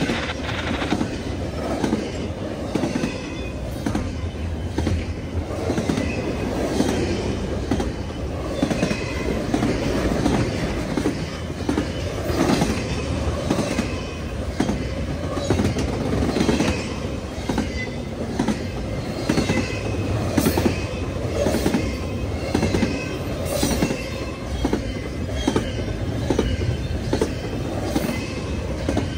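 Railroad cars rolling steadily past, wheels clicking over rail joints in a regular clickety-clack, with faint intermittent wheel squeal.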